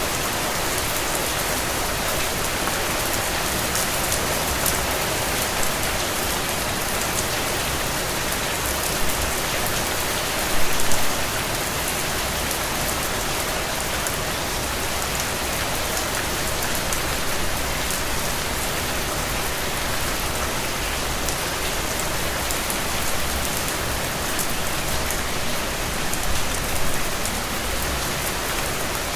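Steady, dense rainfall pattering on surfaces, with individual drops ticking through it and a slightly heavier spell about ten seconds in.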